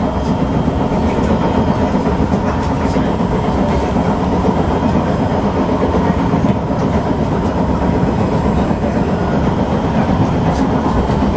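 Kawasaki–Nippon Sharyo C151 metro train running at speed, heard from inside the car: a loud, steady rumble and clatter of wheels on rail. The train has severe wheel flats.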